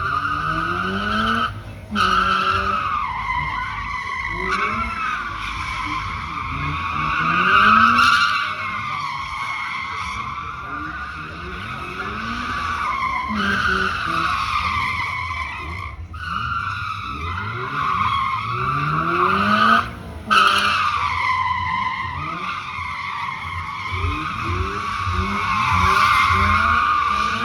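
Drift car's tyres screeching almost without a break, the squeal wavering up and down in pitch, over an engine revving in repeated rising sweeps. The screech cuts out briefly three times.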